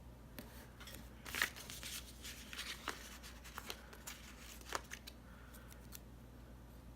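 Paper sticker sheets handled and stickers peeled off and pressed down: faint, scattered rustles and light clicks.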